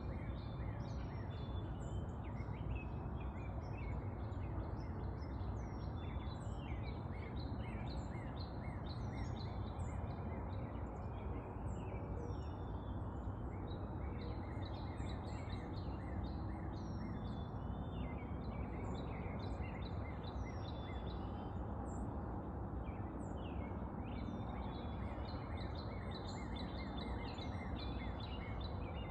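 Many small birds chirping and singing at once, a dense run of short high calls, over a steady low background rumble.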